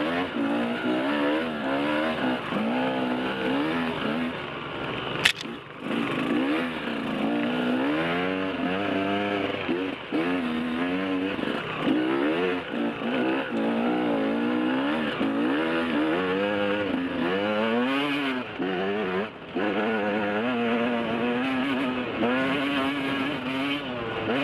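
Enduro motorcycle engine heard from on the bike, its revs rising and falling over and over as the throttle is worked along a rough trail. A single sharp knock stands out about five seconds in.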